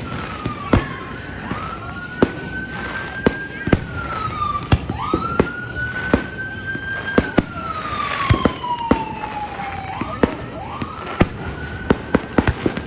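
Fireworks going off in many sharp, irregular bangs, with a siren wailing behind them in slow rising and falling sweeps, about three in a row.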